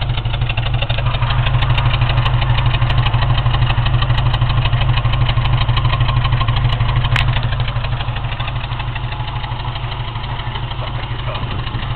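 Stock Ford Mustang 2.3-litre four-cylinder engine idling with a choppy, lumpy idle that sounds like a big cam. The owner suspects the idle is set too low or a sensor is at fault.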